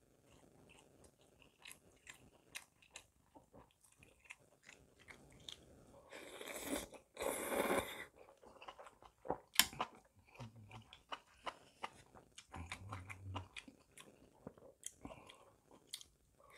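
Close-miked mouth sounds of eating spicy intestine stew with glass noodles and rice: wet chewing and smacking with many small clicks, two loud slurps about six to eight seconds in, and a sharp click a little later.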